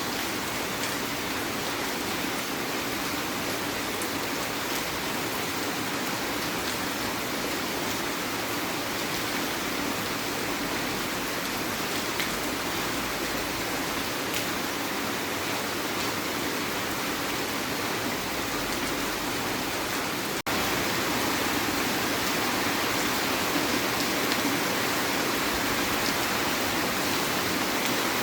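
Heavy rain falling steadily, a dense, even hiss. About twenty seconds in it cuts out for an instant and comes back slightly louder.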